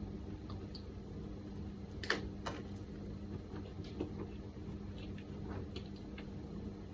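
Chewing a rice ball: small mouth clicks and crackles scattered over a steady low hum, with a louder click about two seconds in.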